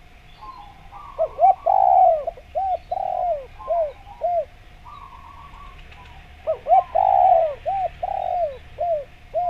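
Spotted dove (derkuku) cooing its song twice, each phrase a run of about six arched coos. Between and under the phrases there are fainter, higher chirping notes and a faint steady tone.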